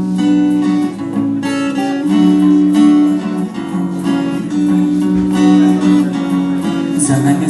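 Acoustic guitar playing the song's instrumental intro, strummed chords in a steady rhythm. A bright, hissy percussion part, like a shaker, comes in near the end.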